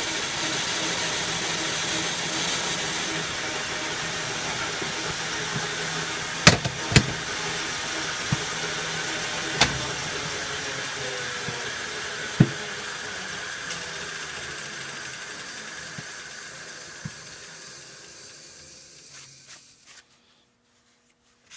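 Metal lathe running steadily while a few sharp knocks sound midway, then coasting down and falling quiet near the end.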